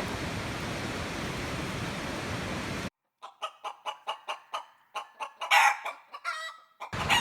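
A steady rushing noise stops abruptly about three seconds in, and over a dead-silent background a rooster clucks rapidly, about four clucks a second, then crows loudly twice. The steady noise returns just before the end. The clean, cut-in rooster marks the start of the morning.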